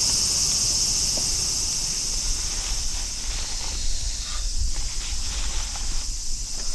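Steady high-pitched chorus of summer insects, under a low rumble, with a few light knocks in the second half.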